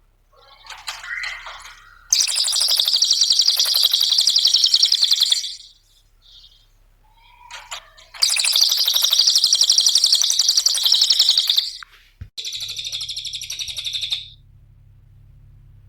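Cililin songbird singing: a few soft calls, then two long, loud, rapid chattering trills of about three and a half seconds each, and a shorter buzzy call near the end.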